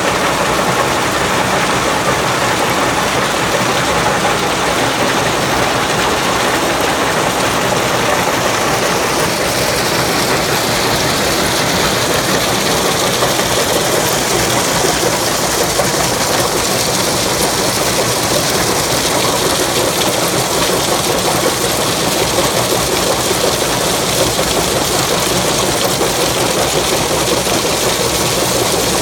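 Yongwon SP400 Super Cone Crusher running in an aggregate crushing plant: a loud, steady mechanical din of the machine at work.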